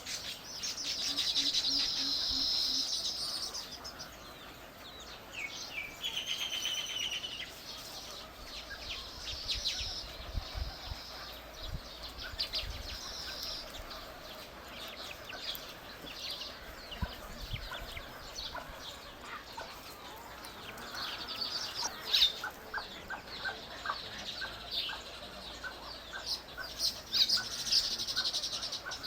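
Birds chirping and calling: short high chirps and trills come and go, and in the second half a rapid run of repeated notes joins in.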